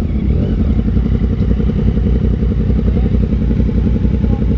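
Yamaha motorcycle engine running steadily under way, with a rapid even low pulse.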